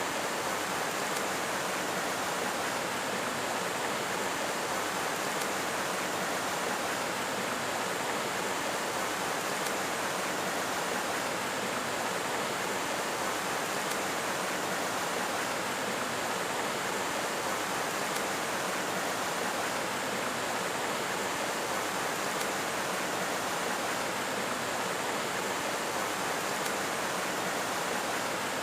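Steady, even rushing noise that does not change, of the kind running water makes.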